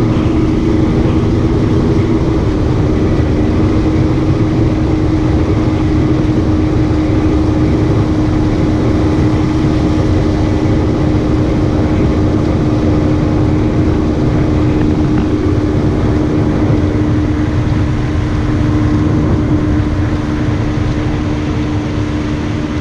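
Fishing boat's outboard motor running steadily at speed, a constant hum over a loud rushing noise, easing off slightly near the end.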